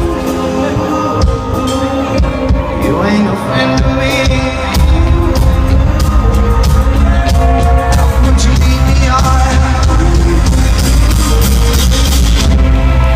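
Live rock band playing an instrumental stretch of the song, getting louder with heavier bass about five seconds in.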